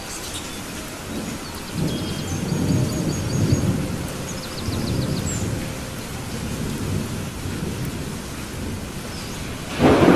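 Thunderstorm: steady rain with thunder rolling through the first half, then a sudden, louder thunderclap near the end.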